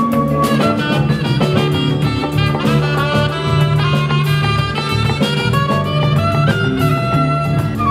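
Live band music: a lead melody over bass and a steady drum beat.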